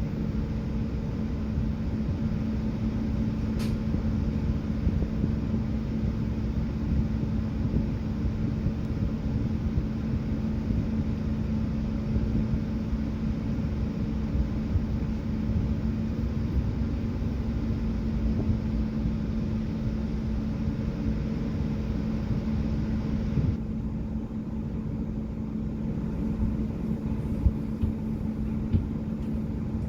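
Express bus driving along, heard from inside the cabin: a steady drone of engine and road noise with a low hum. The higher hiss drops away about three-quarters of the way through.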